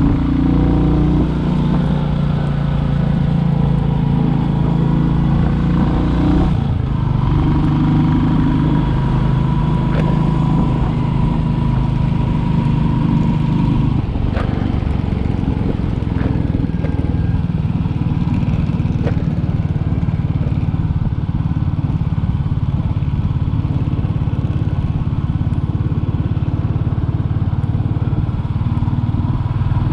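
Royal Enfield Classic 350's air-cooled single-cylinder engine running as the motorcycle is ridden. The engine note changes about seven seconds in and again about fourteen seconds in.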